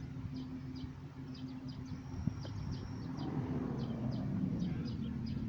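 Honeybees buzzing steadily around an opened hive, with small birds chirping repeatedly over the hum and a single sharp click a little over two seconds in.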